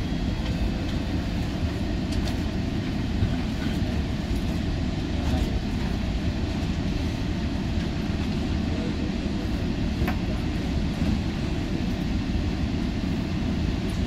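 GO Transit commuter train giving a steady low rumble, with a few faint clicks.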